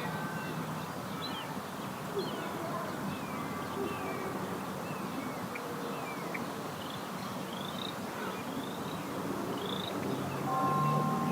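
Small birds chirping again and again, short quick calls over steady background noise. A steady tone comes in about ten seconds in.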